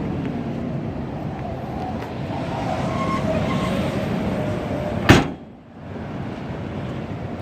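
A 1953 Chevrolet 210's straight-six running, a steady vehicle sound. A single sharp knock comes about five seconds in.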